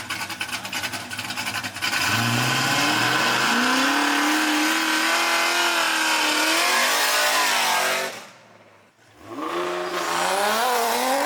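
Drag race car engines at full throttle: a rough, crackling engine for the first two seconds, then an engine pulling hard with a rising pitch that holds high for several seconds and falls away near eight seconds. After a brief drop in level, another engine climbs in pitch near the end.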